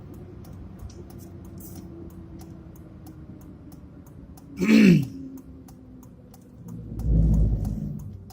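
A man clears his throat once, sharply, about halfway through, over the low steady hum of a moving truck's cab. A deep low rumble swells briefly near the end.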